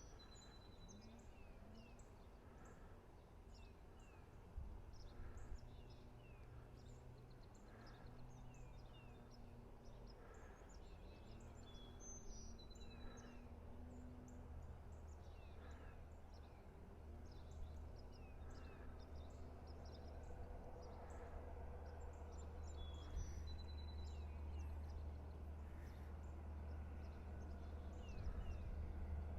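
Songbirds chirping, with a short whistled phrase repeated about every eleven seconds, over a low steady rumble that grows louder in the second half.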